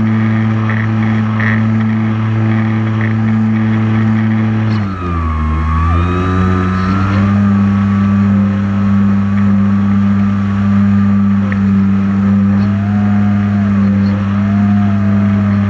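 Camera drone's electric motors and propellers humming steadily. The pitch drops and recovers about five seconds in, then wavers slightly as the motors change speed.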